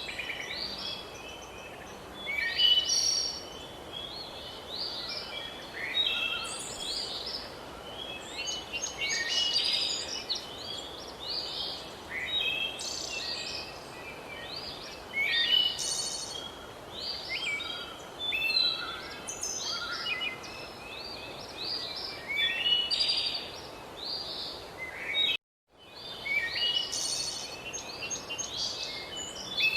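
Many wild birds chirping and singing in overlapping short phrases over a steady background hiss. The sound drops out completely for a split second about three-quarters of the way through.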